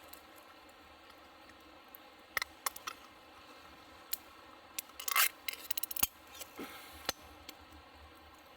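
Light clicks and short scrapes of small hard objects being handled, sparse at first and then a quick cluster about halfway through.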